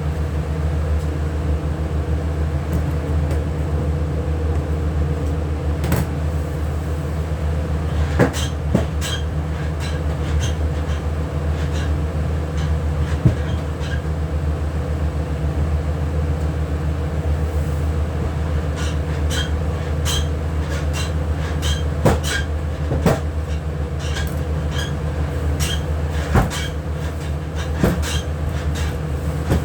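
Steady machine hum from kitchen equipment, with scattered light clicks and knocks that come more often in the second half.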